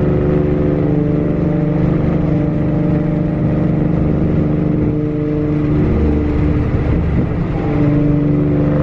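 Nissan 350Z's V6 engine running rough with a steady drone, its note wavering for a moment about six to seven and a half seconds in. The owner takes the rough running for clogged injectors; he later traces the misfire-like stumble to a P0444 evap purge circuit fault.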